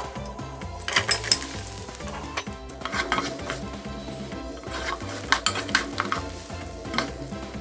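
Food sizzling as it fries in a pot, stirred with a utensil that clicks and scrapes against the pot several times, over background music.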